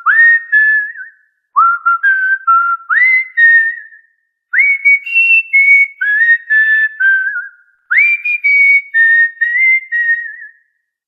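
Cockatiel whistling a tune: clear single-tone notes, each starting with a quick upward slide, in short phrases separated by brief silences. Later phrases sit a little higher in pitch.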